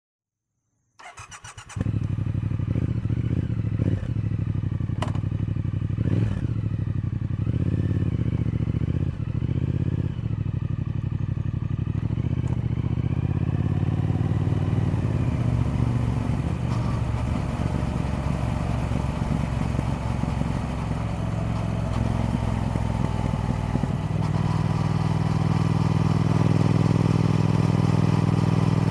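Triumph Speed Twin parallel-twin motorcycle engine started: the starter cranks briefly about a second in, the engine catches and settles into a steady idle, running a little louder over the last few seconds.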